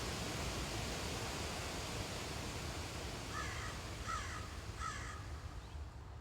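A bird giving three short, harsh calls about three quarters of a second apart, over a steady rushing background noise.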